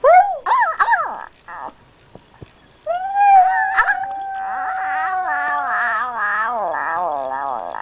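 Pomeranian howling and 'talking': a few short swooping yowls at the start, then after a pause a long held howl that breaks into a wavering, warbling howl toward the end.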